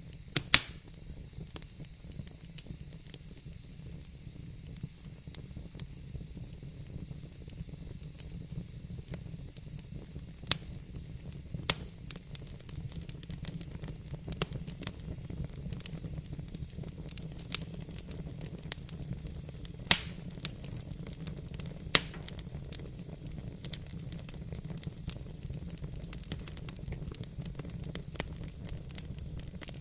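Fire burning in a fireplace: a steady low rumble and hiss with scattered small crackles and a few sharp pops, the loudest about twenty seconds in.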